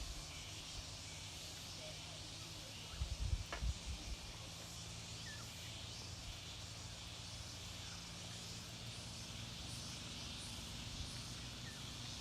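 Outdoor ambience: wind rumbling on the microphone, louder for a moment about three seconds in, under a steady high hiss, with a few faint short bird chirps.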